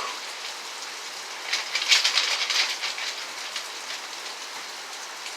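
Rain falling steadily as an even hiss, with a louder, denser spell of spatter about two seconds in.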